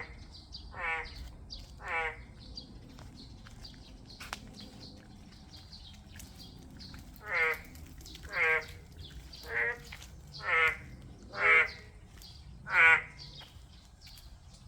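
An unidentified animal giving harsh calls that each fall sharply in pitch, repeated about once a second: three near the start, then six more after a pause of several seconds.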